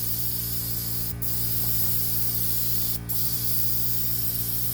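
Paint spray gun hissing steadily as paint is sprayed, with a steady low hum underneath. The spray breaks off for a moment about a second in and again about three seconds in.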